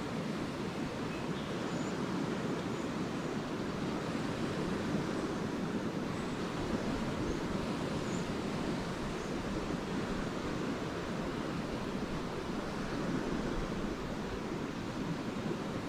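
Lake waves washing steadily onto the shore, with a few faint, brief high chirps of swallows.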